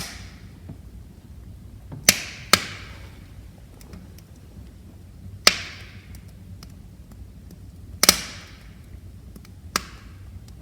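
Wood fire in a fireplace crackling: about six sharp pops from the burning logs, each trailing off in a short hiss, over a low steady rumble of flame and faint small ticks.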